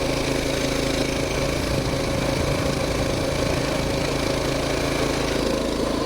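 Coleman BT200X mini bike's small single-cylinder four-stroke engine running steadily as the bike is ridden over ice on studded tires.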